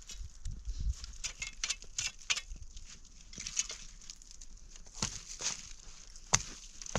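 Irregular rustling and crackling handling noises with scattered clicks, and one sharp knock about six seconds in.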